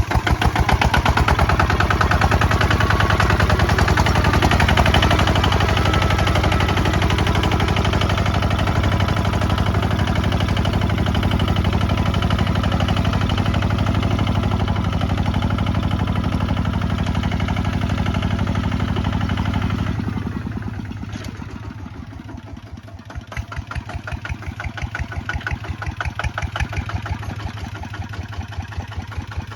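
Kubota ZT155 DI single-cylinder diesel on a walking tractor, running with a dense, steady chug of firing pulses. About twenty seconds in it drops in level and runs on more slowly and quietly, each firing beat standing out separately.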